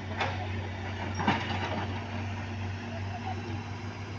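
Heavy diesel engine running steadily at a low, even hum, with a sharp knock about a quarter second in and a louder one at about a second and a quarter.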